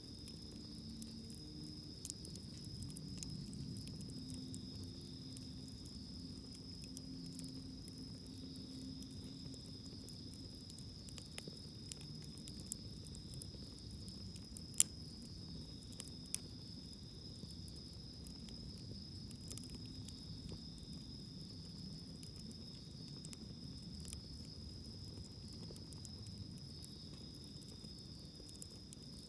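Wood campfire crackling with scattered sharp pops, the loudest about halfway through, over a steady high trill of insects.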